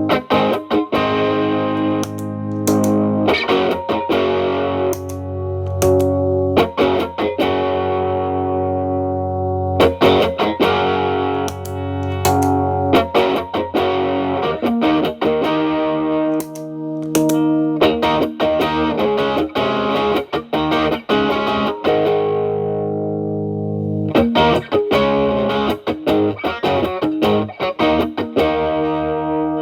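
Electric guitar, a Fender Telecaster through an Xotic BB overdrive pedal into a Marshall Valvestate amp, strumming chords and picking lines that ring out with mild overdrive. The drive is cleaned up from a high gain setting, so the chords keep some grit without full distortion.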